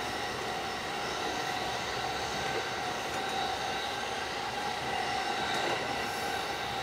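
Running noise of a JR West local electric train on the Tokaido Line, heard from inside the carriage: a steady rumble of wheels on rail with a few faint steady tones over it.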